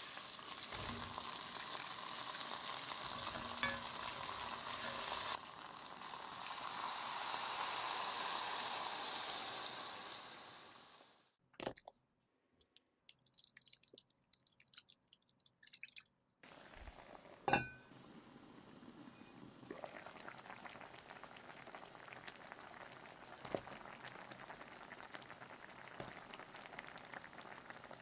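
Food sizzling and frying in a pan, stirred, for about the first eleven seconds; it cuts off suddenly, leaving near silence with a few faint clinks. About sixteen seconds in a quieter sizzling or simmer starts, with occasional clinks of utensils.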